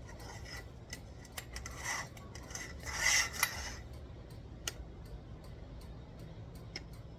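Parts of a patio rod being handled and fitted together: scattered light clinks and clicks of hard pieces, with a longer scraping rub about two seconds in and another about three seconds in.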